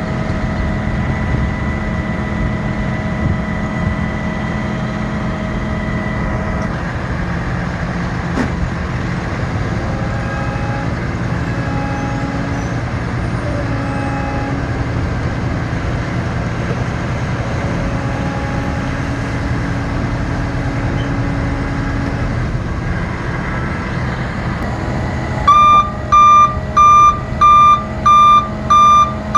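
Ford F-750 utility truck's engine running steadily, its tone shifting down about a quarter of the way in. Near the end a loud warning alarm starts beeping, about two beeps a second.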